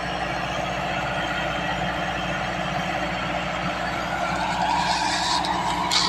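Tractor engine running steadily, with added rushing noise higher up from about four seconds in and a brief louder burst near the end.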